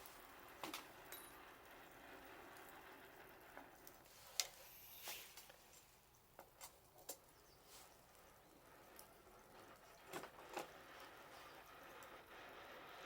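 Faint, scattered pops and snaps of a wood bonfire crackling, about ten over the stretch, with one sharper pop about four seconds in.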